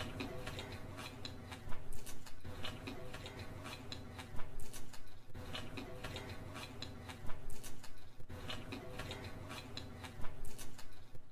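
Close-miked chewing and wet mouth sounds of a person eating chowmein noodles, with bursts of sharp clicks about every three seconds over a steady low hum.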